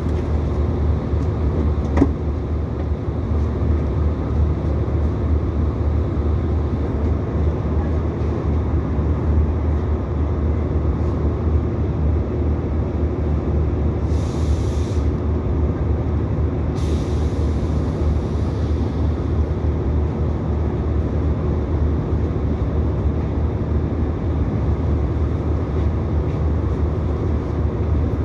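Interior running noise of an Irish Rail 22000 Class diesel multiple unit, heard from inside the rear passenger car as it runs in on its approach to a station stop: a steady low engine hum with wheel and track rumble. There is one sharp click about two seconds in, and two short hisses about halfway through.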